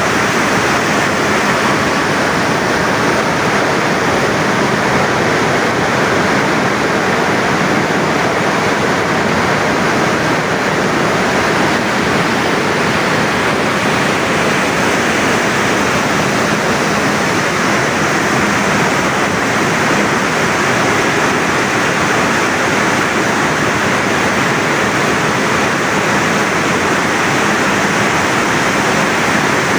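Floodwater pouring through a dam's service spillway: a loud, steady rush of falling water that does not change.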